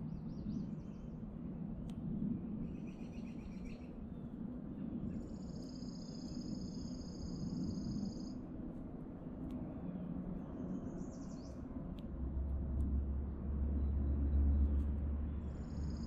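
Backyard songbirds calling over a steady low background hum: a few short, harsh high calls and a long, even, high trill lasting about three seconds, which comes again at the end. A louder low rumble rises about twelve seconds in and fades about three seconds later.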